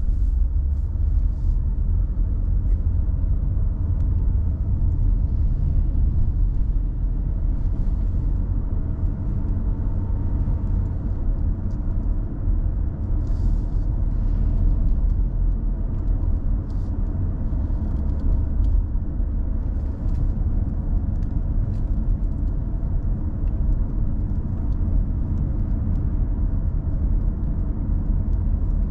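A car driving along steadily, its low road and engine rumble continuous throughout.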